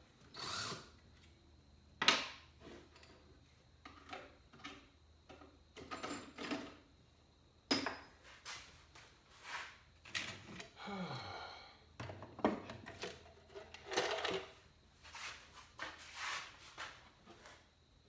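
Hand tools and hardware being handled and rummaged through in a search for a Phillips driver bit: a string of irregular knocks, clicks and clatters, with a brief whir around the middle.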